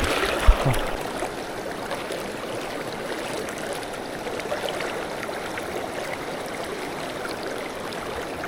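Steady rush of river water flowing past the wading angler.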